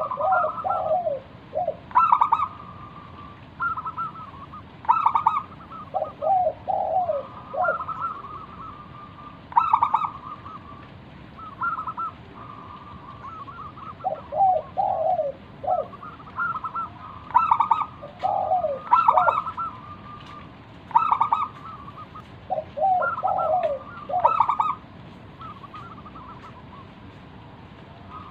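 Zebra dove singing its cooing song, repeated phrases of quick, clipped coos separated by short pauses.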